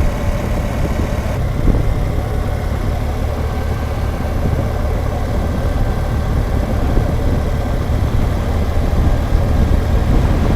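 BMW R1200GSA's boxer-twin engine running steadily as the motorcycle rides along, a low even rumble.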